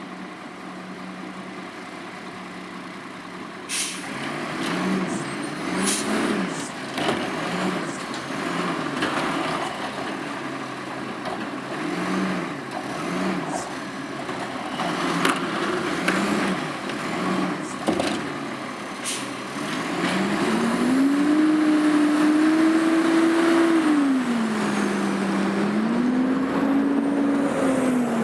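Autocar garbage truck's diesel engine idling, then a run of clanks, air-brake hisses and short blips of engine speed. About two-thirds of the way through the engine is floored and held high for several seconds, eases off, then revs up again, revved while in gear so it labours.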